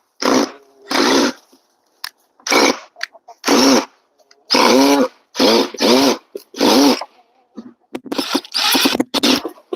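A dog barking in a rapid series of short, loud barks, coming closer together near the end.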